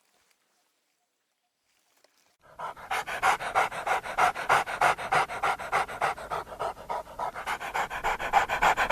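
Dog panting fast and evenly, about five or six breaths a second, starting a couple of seconds in after near silence.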